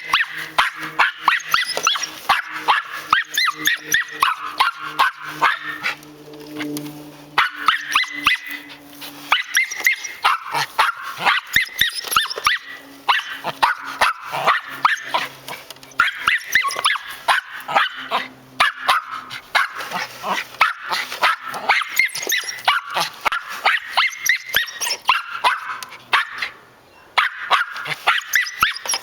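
Dog barking rapidly and nonstop at a running lawn mower, several sharp barks a second, breaking off briefly twice.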